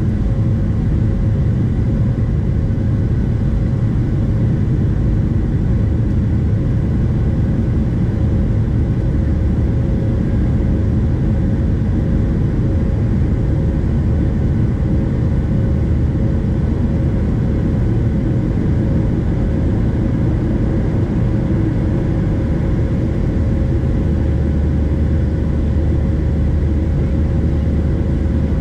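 Steady cabin noise inside a Boeing 737-700: a deep, even rumble of the CFM56-7B jet engines and airflow, with a faint steady hum over it.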